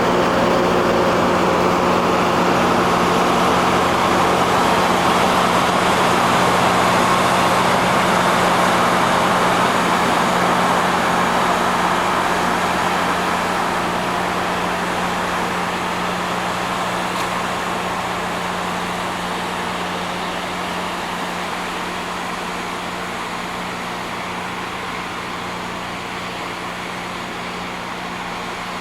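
Rail grinding machine at work: a steady motor hum under a dense grinding hiss. The sound is loud at first and fades slowly through the second half as the machine moves away.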